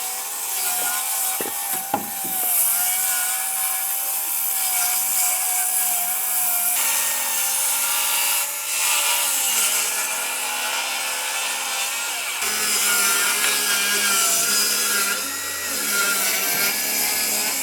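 Electric power tool working wood, its motor whine wavering in pitch under load. The sound changes abruptly about 7 seconds in and again about 12 seconds in.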